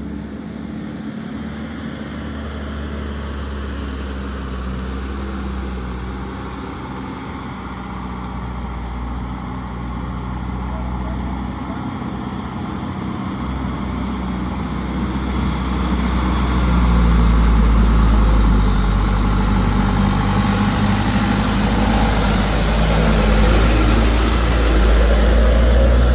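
Heavily loaded truck's engine labouring up a steep climb: a low, steady drone that grows louder a little past halfway.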